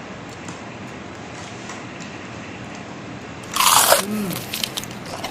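A loud crunch as teeth bite into crispy fried chicken, a little over three seconds in, lasting about half a second.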